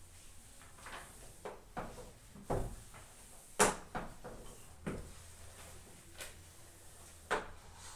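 Writing on a board: an irregular series of short knocks and scrapes, one every half second to a second, the loudest about three and a half seconds in.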